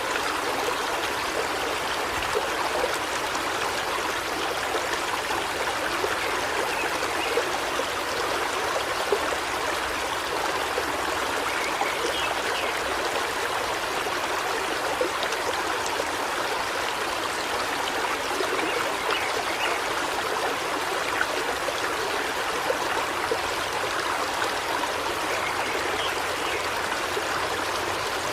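A river flowing steadily, a constant even rush of running water.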